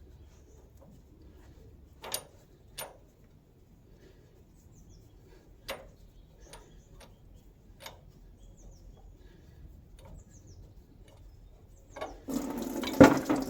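A few sharp clicks, then about twelve seconds in heating oil starts running from the fuel tank outlet of a 1913 Richard Hornsby portable engine into a catch container, with a couple of loud knocks. It comes out slowly because the tank outlet is all blocked up.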